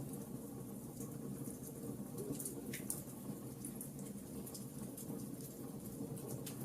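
Wood fire crackling: frequent small sharp pops and snaps over a steady low rush of burning.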